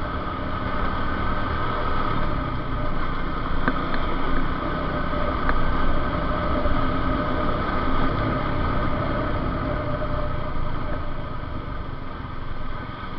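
Motorcycle riding at speed: wind rushing over the helmet microphone, with the engine running steadily underneath.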